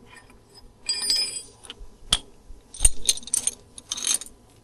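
Metal tools or parts clinking and knocking together, a series of sharp clinks with a brief high ringing after some of them.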